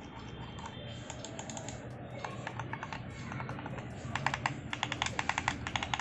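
Redgear A-17 gaming mouse buttons being clicked over and over. The clicks are faint at first, come quickly from about two seconds in, and are loudest and closest together in the last two seconds.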